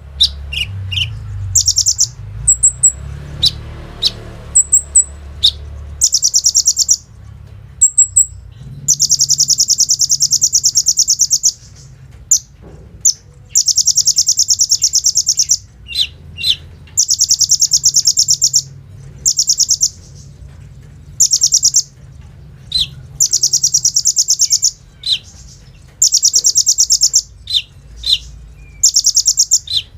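Kolibri ninja sunbird singing: loud, very rapid high trills of one to three seconds each, rattled off like a machine gun, alternating with short sharp chirps.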